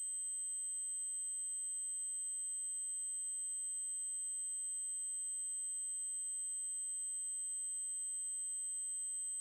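Synthetic 8192 Hz triangle-wave tone, one very high-pitched steady whine held constant without a break.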